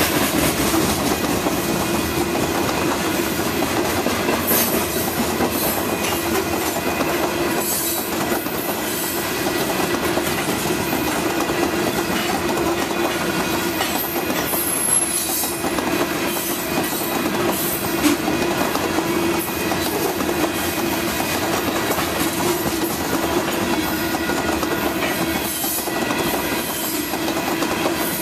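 Freight train of covered hopper cars rolling steadily past, its steel wheels clicking over the rail joints. Brief high wheel squeals come now and then.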